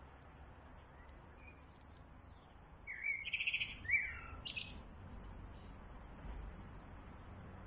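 Small birds calling: a loud burst of quick chirps and a rapid trill about three seconds in, with thin, faint high calls now and then.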